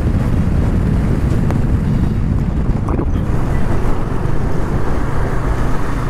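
Wind buffeting the microphone of a motorcycle riding at highway speed, a steady heavy rumble with engine and road noise underneath.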